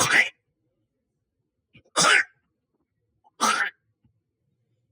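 Three short, harsh hacking coughs about a second and a half apart: retching to cough up a hairball.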